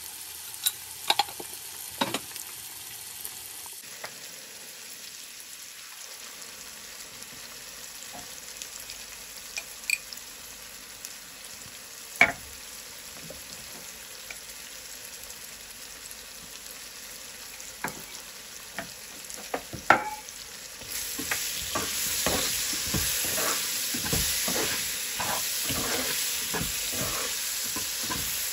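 Onions, tomatoes and spices frying in oil in a non-stick wok: a steady sizzle with a few sharp taps. About two-thirds of the way through, the sizzle gets louder as a slotted spatula stirs and scrapes through the pan in quick strokes.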